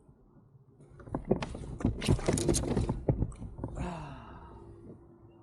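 A burst of rushing and clattering noise on a fishing kayak moving on the water, building about a second in, loudest for a couple of seconds, then fading away.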